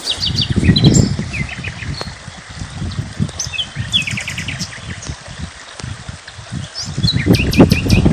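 Small birds chirping in quick series of short high notes, over a loud low rumble that swells about a second in and again near the end.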